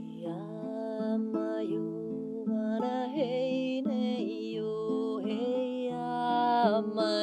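Acoustic guitar picked slowly in a gentle repeating pattern, with a woman's voice singing a wordless, wavering melody over it from just after the start.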